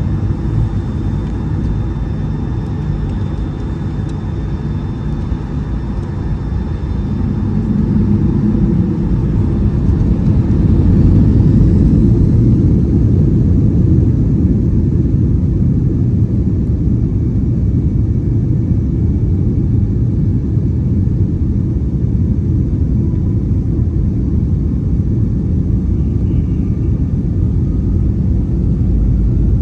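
Cabin noise inside a Boeing 757-200: a steady low rumble of the engines and airframe that grows louder about a quarter of the way through and then holds.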